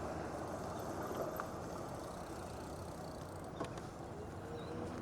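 Steady low rumble of a bicycle ride: wind on an unshielded microphone and tyre noise. A light click comes about three and a half seconds in.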